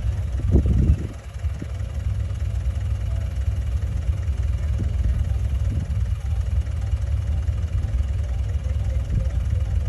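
Heavy diesel engine running steadily with a low rumble, with a brief louder surge about half a second in.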